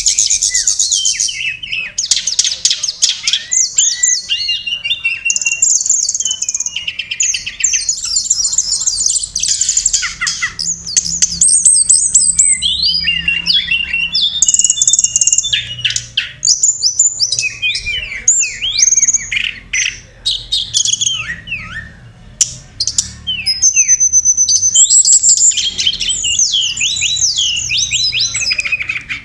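Songbird song of the tledekan gunung (sulingan gunung): a rapid, continuous run of high chirps, trills and whistled notes, played as a bird-lure recording. It eases off briefly about two-thirds of the way through.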